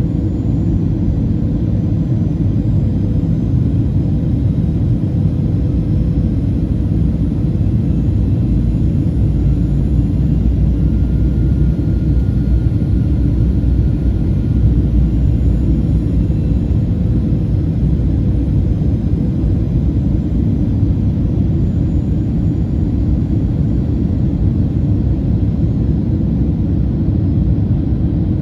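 Steady low rumble of engine and airflow noise inside the cabin of a Boeing 737-800 airliner in flight, with a faint steady hum above it.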